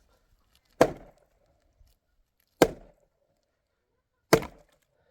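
Three heavy chopping blows, evenly spaced about two seconds apart, each a sharp knock with a short ring after it.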